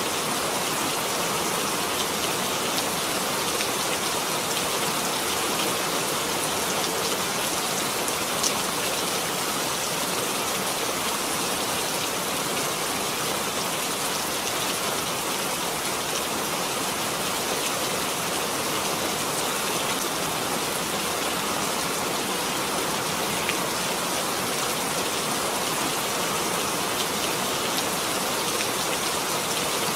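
Steady rain falling, an even hiss with one sharper drop tick about eight and a half seconds in.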